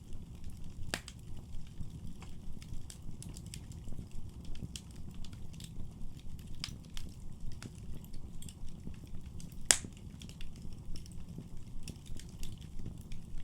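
Wood fire crackling in a fireplace: a steady low rush of flame under scattered sharp pops and snaps, with one louder pop about two-thirds of the way through.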